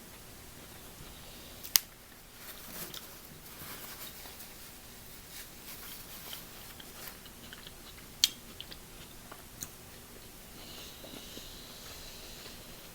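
A person chewing and biting into seafood close to the microphone, with many small wet clicks and two sharp loud clicks, one near the start and one about two-thirds of the way through. A soft hiss runs for a couple of seconds near the end.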